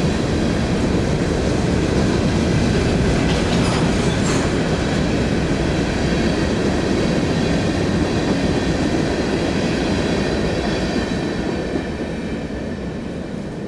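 Train passing at close range, its cars rolling by steadily, the sound beginning to fade over the last couple of seconds.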